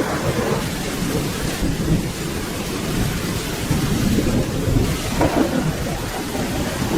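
Steady rain with thunder rumbling low underneath, swelling briefly about five seconds in.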